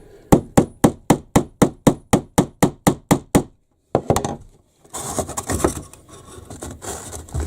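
A hammer tapping a fixing into a hole in timber framing, light quick strikes on wood about four a second for some three seconds. After a short pause comes one more knock, then rustling and scraping as the work is handled.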